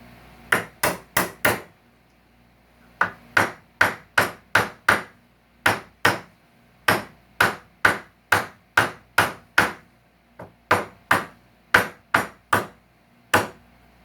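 Hammer blows, about two dozen sharp strikes in quick runs of roughly three a second, with short pauses between the runs. They come while nails and staples are being worked out of salvaged couch wood.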